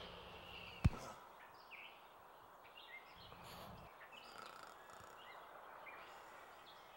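Faint birds chirping in short repeated calls, with one sharp click about a second in.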